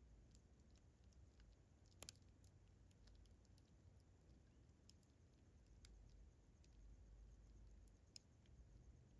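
Campfire crackling faintly: scattered small pops, with a sharper double pop about two seconds in and another near the end.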